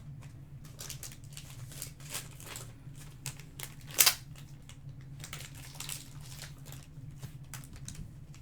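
Trading cards and foil pack wrappers being handled: a run of crinkles, slides and light taps, with one louder crackle about four seconds in, over a low steady hum.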